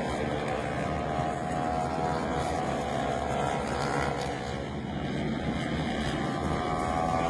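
MotoGP racing motorcycle engines screaming at high revs, a steady high-pitched mechanical note, easing slightly about five seconds in and then rising again.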